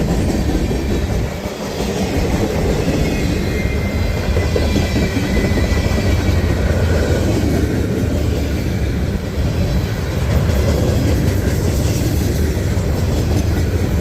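Freight train's cars rolling past close by: a steady rumble and clatter of steel wheels on the rails.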